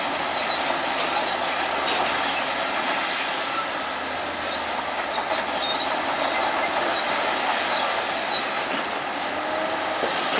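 Bulldozer working, its steel crawler tracks clanking and squealing in a steady dense clatter.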